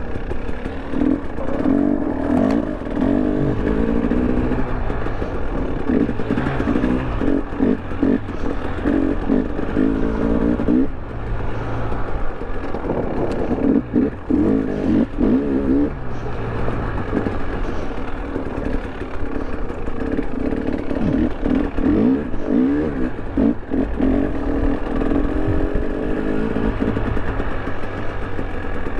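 A 2023 KTM 300 Erzbergrodeo's two-stroke engine running as the bike is ridden off-road, its engine speed rising and falling again and again with throttle changes, with some clatter.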